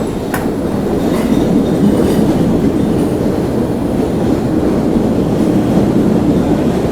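Train running on the rails: a steady low rumble that slowly grows louder, with a sharp wheel click about a third of a second in and a couple of fainter clicks after.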